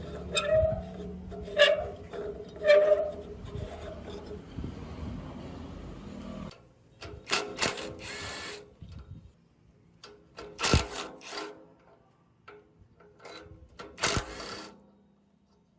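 A small power tool runs steadily with some clicking, then cuts off abruptly about six and a half seconds in. After that come several separate sharp clicks and knocks, as of metal parts or tools being handled.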